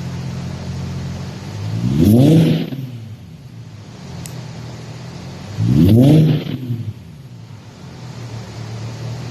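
Infiniti G37x's 3.7-litre V6 with a muffler delete, idling and then blipped twice, about two and six seconds in. Each rev rises and falls back in under a second before settling to idle.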